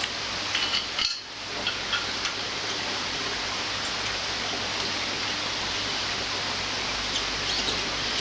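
Several light clinks of small metal parts being handled in the first two seconds, over a steady hiss and low hum.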